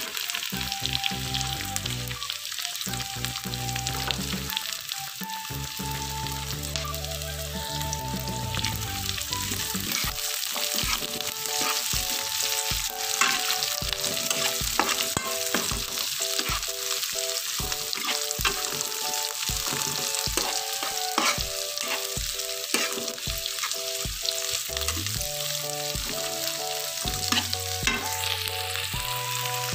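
Diced onion, shallots and garlic sizzling in hot oil in a wok, stirred with a metal spatula that scrapes and clicks against the pan.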